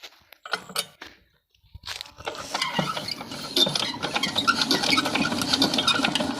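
Small diesel water-pump engine being cranked again while cold: a few clicks, then from about two seconds in a dense, steady clatter builds up and carries on.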